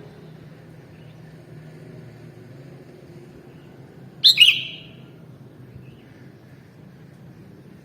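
Sooty-headed bulbul giving one short, loud, sharp call about four seconds in, over a steady low background hum.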